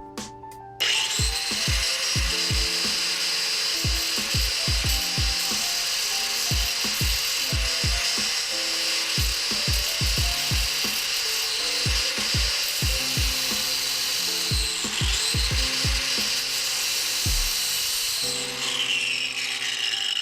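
A cutting wheel on a power tool grinding through a car's stock exhaust pipe: a steady, loud, high grinding that starts about a second in, dips in speed and picks back up twice near the end, then stops. An instrumental beat with a kick drum plays underneath and carries on after the cutting stops.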